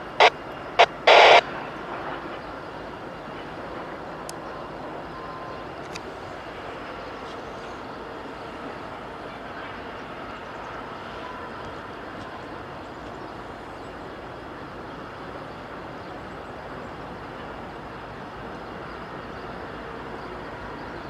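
A heavy coal unit train, pulled by CSX SD70MACe and ES44AH diesel-electric locomotives, rolling slowly, with a steady rumble of engines and wheels on the rails. A few sharp, loud clacks come in the first second and a half.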